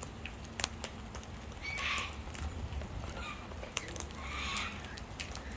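Wild birds at a feeding spot: scattered sharp clicks and taps, with two short harsh bird calls, about two seconds in and again about four and a half seconds in.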